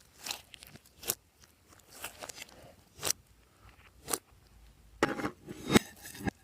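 Glossy slime being squished and pressed by hand, giving sharp sticky clicks and pops about once a second, then a denser run of crackling pops near the end.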